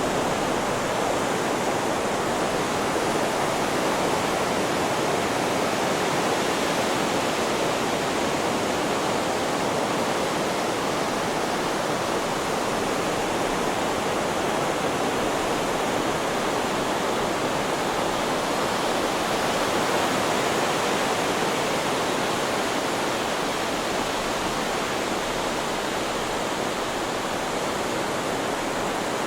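Steady white noise: an even, unbroken hiss with no rise and fall of breaking waves.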